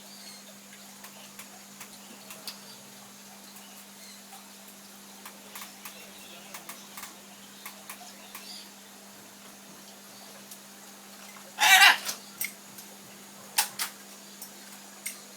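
Pet bird moving about with scattered small taps and clicks, then one loud harsh squawk about twelve seconds in, followed by a few sharp clicks. A faint steady hum runs underneath.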